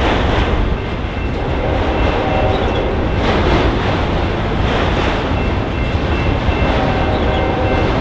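Union Pacific autorack freight train rolling steadily past: a continuous loud rumble and clatter of car wheels on the rails, with faint thin high tones running over it.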